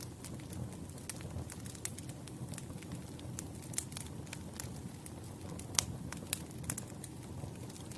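Campfire burning, wood crackling with scattered sharp pops over a low steady rumble of the flames; the loudest pop comes about three-quarters of the way through.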